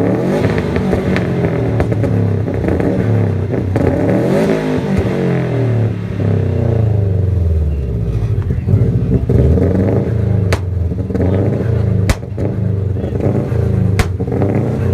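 Performance car engine revved hard over and over in a rev contest, the pitch climbing and falling with each blip, with three sharp exhaust bangs in the second half.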